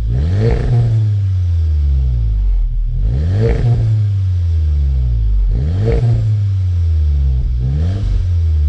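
Volkswagen Golf 7 R's turbocharged 2.0-litre four-cylinder engine blipped four times through its Akrapovic exhaust, each rev climbing quickly and then sinking slowly back down. A loud exhaust note, which the owner calls really brutal.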